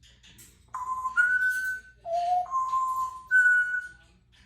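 Congo African grey parrot whistling a short tune of five clear, steady notes that step up and down in pitch, starting about a second in.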